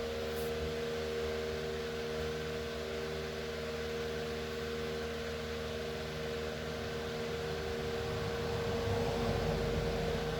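Electric fan running steadily: a constant hum with a steady tone over an even hiss, a little louder and lower near the end.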